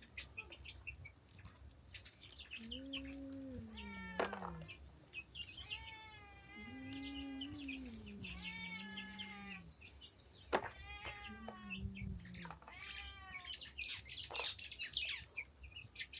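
Cat meowing: three long, drawn-out calls that sag in pitch, the longest about three seconds, with short high chirps and ticks scattered between them.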